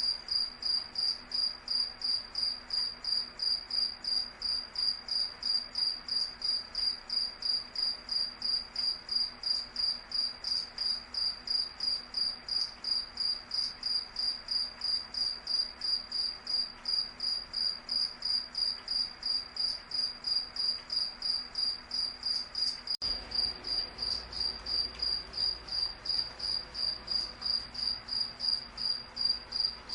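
Cricket chirping steadily: a single high, even tone pulsed at about three chirps a second, without pause.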